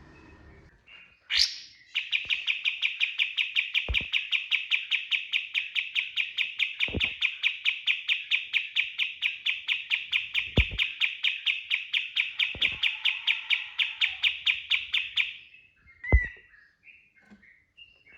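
Kapas tembak songbird in a long rapid-fire burst of song: sharp identical notes repeated about five times a second for some thirteen seconds, followed by a few scattered short chirps. A few soft knocks sound underneath.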